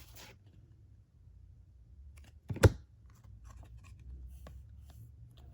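Baseball trading cards being handled and flipped through, with faint rustling and sliding of card stock and one sharp tap about two and a half seconds in.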